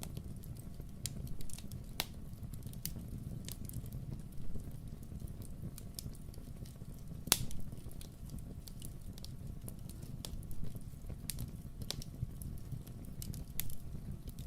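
Wood fire burning in a fireplace: a steady low rumble with scattered crackles and pops, one loud pop about halfway through.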